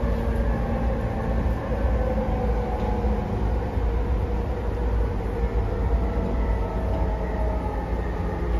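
JR East 209-500 series electric commuter train heard from inside the car: a steady low rumble of wheels on rail with faint traction-motor tones above it, as the train runs into its next station after the arrival announcement.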